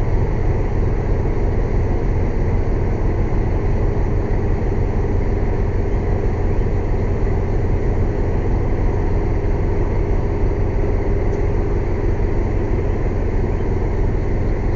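Air compressor running steadily: a loud, unbroken low drone with a fast even pulse.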